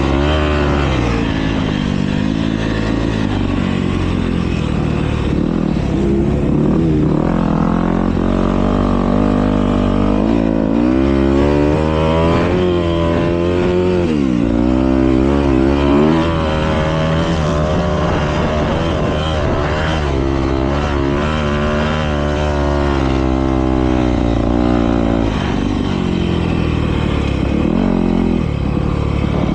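Several motocross bikes racing, their engines revving up and falling back again and again as they work round the track, with the pitches of different bikes overlapping.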